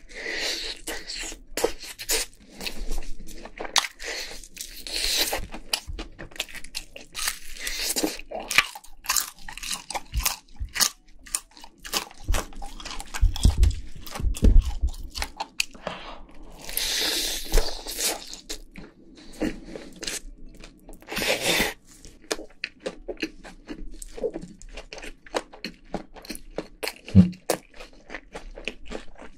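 Crispy fried chicken crunching and being chewed close to the microphone, in many irregular crackly bites. About halfway, a gloved hand pulls at the chicken pieces with low thudding handling noise.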